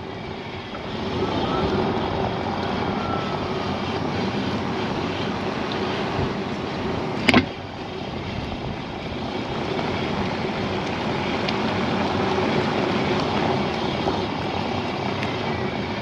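2015 Tesla Model S P85D driving, with a steady road and tyre rumble. A single sharp click sounds about seven seconds in, with a couple of faint ticks later. This is the unexplained clicking the owner hears from the rear of the car.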